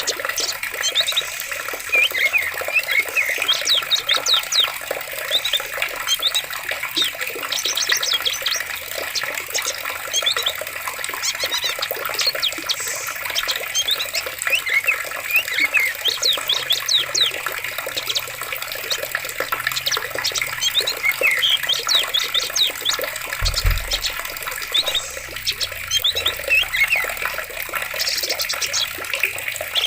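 Steady running water, a stream or small cascade, with many birds chirping and trilling over it throughout. A brief low thump comes about two-thirds of the way through.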